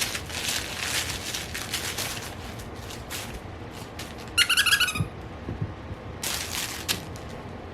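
A puppy playing: rustling and scuffling, with a short burst of rapid high squeaks about halfway through.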